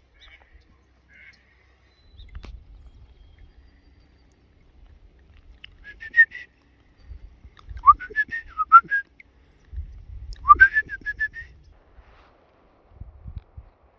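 A bird calling in three series of rapid, high whistled chirps, the second and third each opening with a rising note, over intermittent low rumbles.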